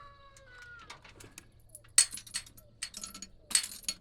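A rooster's crow trails off, falling in pitch, over the first second. From about two seconds in come a series of sharp metallic clinks and jangles.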